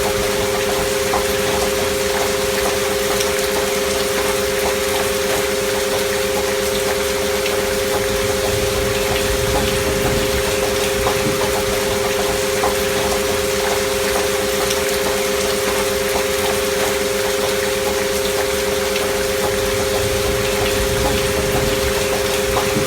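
Two steady pure sine tones held together, sold as 528 Hz and 639 Hz healing frequencies and layered as an alpha-wave binaural beat, over a constant bed of gentle rain with small drop patter.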